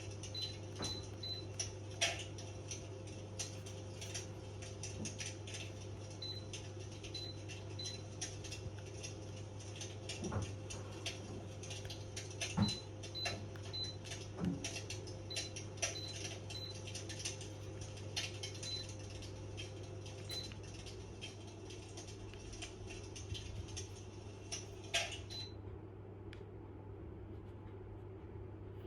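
Bergman Lucia III electric fireplace fan heater running with a steady low hum, with frequent irregular light ticking and clicking and a few sharper clicks.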